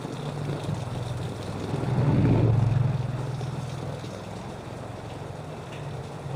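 Engine of a motor vehicle running close by, swelling to its loudest about two seconds in and then settling to a steady hum.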